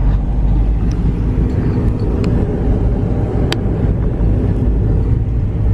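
Car road and engine noise heard inside the cabin while driving: a steady low rumble, with a few light clicks, the clearest about halfway through.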